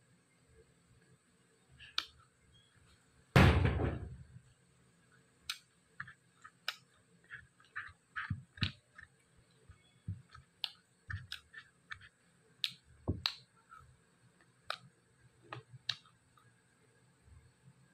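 Close-miked eating sounds of fried pork being chewed: a run of sharp mouth clicks, smacks and crackles at an uneven pace. About three seconds in there is one much louder thump that fades over about half a second.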